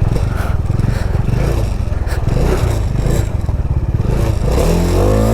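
Motorcycle engine running under way over a rough, broken road, with clattering and scraping from the ride. Near the end the engine pitch rises and falls once as the rider revs and eases off.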